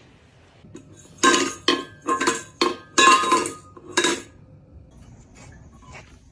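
Dishes and cutlery clattering: a quick run of clinks and knocks, some ringing briefly, starting about a second in and stopping after about three seconds.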